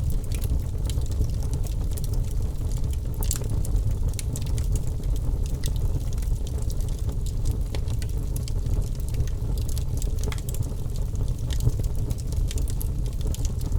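Campfire burning: scattered crackles and sharp pops over a steady low rumble, with a few louder pops about 3 and 10 seconds in.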